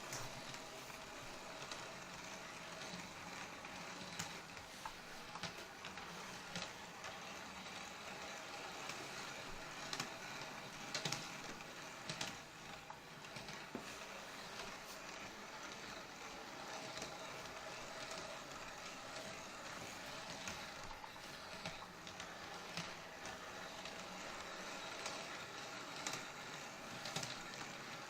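Bachmann large-scale Percy model train running on its track, pulling a rake of trucks. A faint, steady whir from its electric motor and wheels, with scattered clicks.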